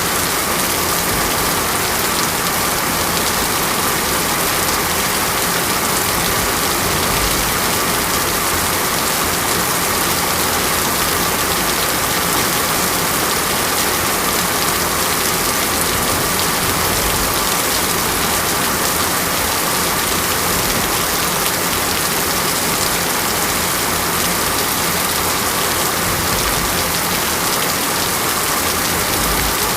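Steady heavy rain falling on a surface, a dense even hiss with no let-up.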